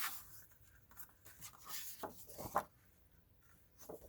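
Paper and cardstock rustling and scraping as the sheets are handled and rubbed, with a sharper crinkle about two and a half seconds in.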